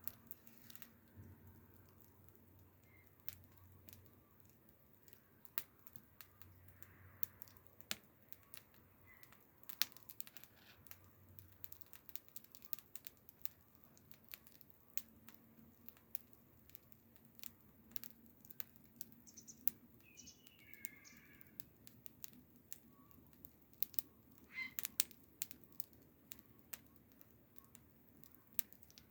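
Wood fire crackling, with scattered sharp snaps and pops at irregular intervals. A bird chirps briefly about two-thirds of the way through.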